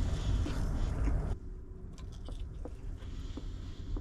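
Low wind rumble on the microphone, then after an abrupt cut, soft scattered clicks of someone chewing bacon.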